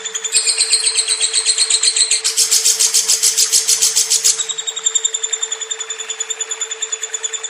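Lovebird chattering in one long unbroken trill of rapid repeated notes, about eight or nine a second, shifting up in pitch about a third of a second in and back down after about four and a half seconds, over a steady low hum.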